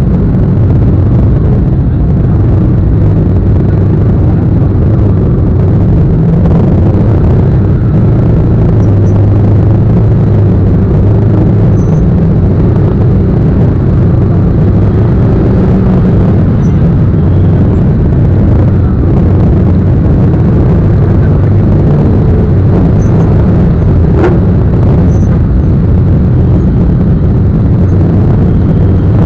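Motorcycle riding at a steady pace: a loud, unbroken low rumble of engine and road noise.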